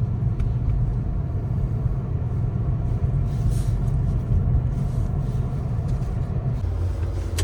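Tractor-trailer's diesel engine running steadily with a low rumble, heard inside the cab while driving. Its note changes to a steadier low hum near the end.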